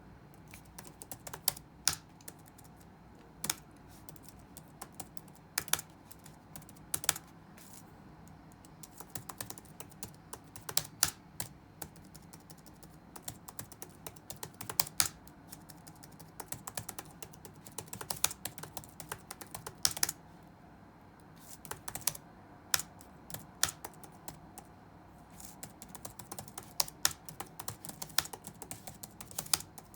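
Computer keyboard typing in irregular bursts of keystrokes with pauses of a second or two, some strokes noticeably louder than the rest, over a faint steady low hum.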